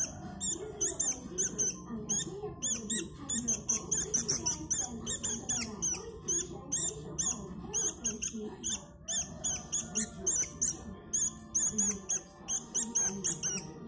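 Sooty-headed bulbuls (kutilang) chirping in a rapid, continuous run of short high squeaky notes, several a second. A lower wavering melodic voice runs underneath.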